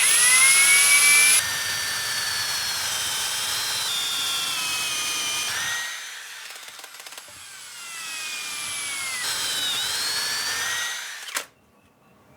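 Electric drill converted into a grinder, running with a high motor whine whose pitch sags and recovers as it works. It goes quieter for a moment about halfway through, picks up again, and stops with a click shortly before the end.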